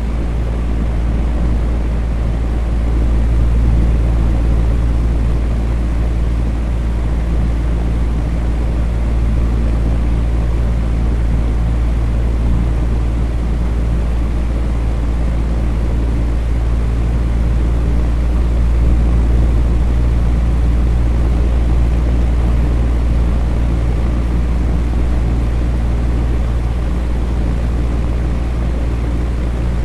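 Electric fan running steadily: a low whooshing hum from the spinning blades and motor, with a few steady low tones under an even airy hiss.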